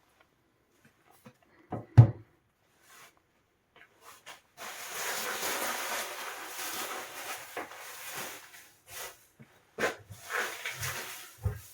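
A sharp knock, then a few seconds of rustling and scraping, with more knocks near the end: objects being moved and handled.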